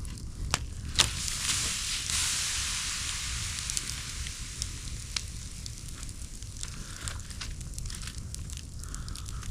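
Wood campfire crackling and hissing, with scattered sharp pops, two louder ones in the first second or so; the hiss is strongest early on and then settles.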